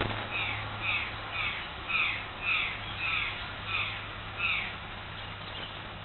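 A bird calling a series of about eight short calls, each falling in pitch, at about two a second, stopping a little over a second before the end.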